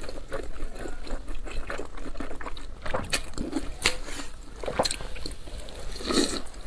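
Close-miked eating sounds: wet chewing and smacking of a mouthful of food, with many short sharp mouth clicks.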